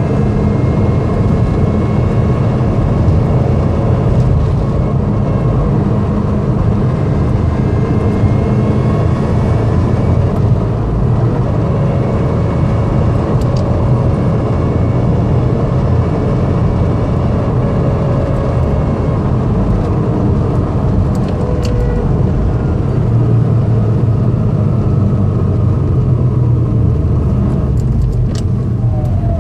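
2004 Subaru STI driving, a thin, steady gear whine riding over the engine and road noise, drifting slightly in pitch with speed. The whine is present in every gear, which the owner suspects is the front differential.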